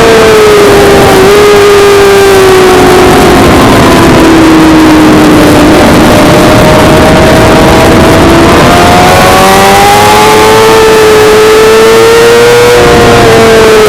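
Suzuki GSX-R600 inline-four race bike at high revs. The engine note falls in steps through the first half, as if braking and downshifting, then climbs steadily under acceleration before dropping again near the end. Heavy wind rush runs underneath.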